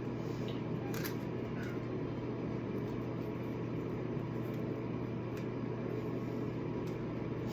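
Steady low hum with an even background hiss: room tone, with a faint click about a second in.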